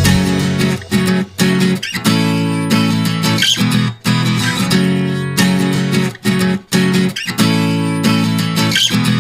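Background music: acoustic guitar strumming chords, with short breaks between strums.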